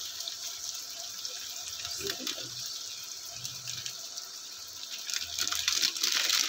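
Chicken, potatoes and onions sizzling in hot oil in a frying pan: a steady hiss that grows louder near the end.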